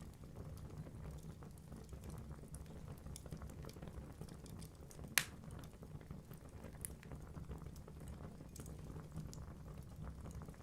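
Wood fire crackling in a fireplace: burning logs give a steady low rumble with many small ticks and snaps, and one loud sharp pop about five seconds in.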